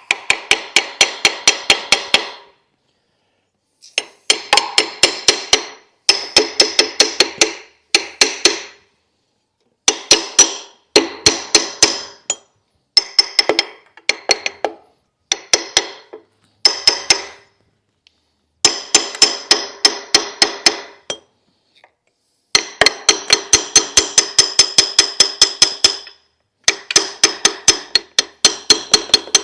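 Small hammer tapping on metal in quick runs of about six blows a second, with short pauses between runs and a metallic ring. The blows are driving the new rear crankshaft seal and wear ring onto the crankshaft of a 7.3 Power Stroke diesel.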